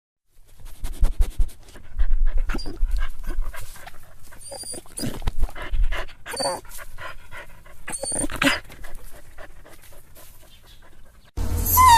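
Dog panting, broken by a few short high whines. Near the end a louder dog whine starts, sliding down in pitch.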